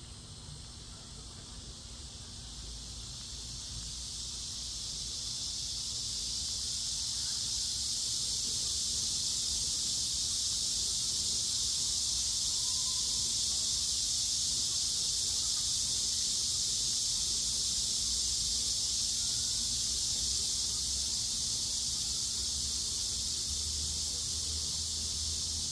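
Steady, high-pitched chorus of insects buzzing, swelling over the first few seconds and then holding level, with a faint low steady hum beneath.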